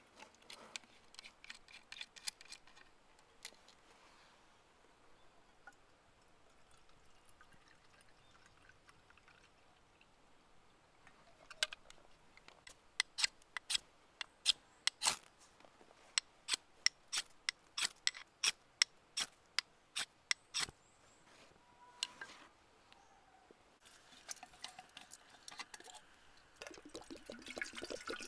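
Sharp clicks, a few scattered at first, then a quick irregular run of about two to three a second lasting some ten seconds. Near the end a rushing noise of liquid being poured begins.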